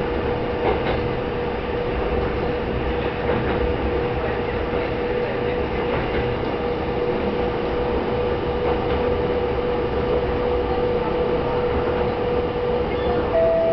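Tsugaru Railway diesel railcar running, heard from inside the cabin: a steady rumble with a constant mid-pitched hum and a few faint knocks from the track. A higher tone comes in near the end.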